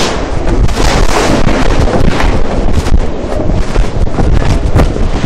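Strong storm wind in gusts, buffeting the microphone with a heavy rumble, and a few brief sharp knocks.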